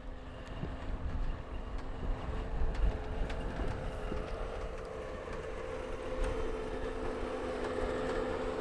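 An engine running steadily at a distance, its pitch holding level and growing slightly louder in the second half, with a low rumble of wind on the microphone.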